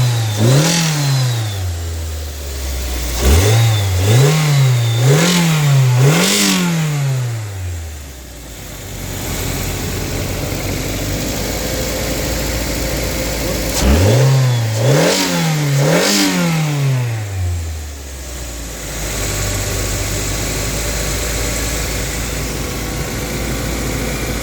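2010 Mazda 3's four-cylinder engine idling steadily and being revved in quick blips: one right at the start, three in a row a few seconds in, and three more just past the middle, each rising and falling in pitch before dropping back to idle. It runs smoothly, in the seller's words "running good".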